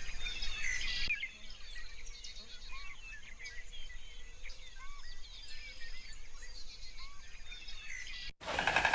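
Many birds chirping and calling at once, a dense mix of short chirps and whistles over outdoor background noise. Near the end the sound cuts off abruptly and guitar music begins.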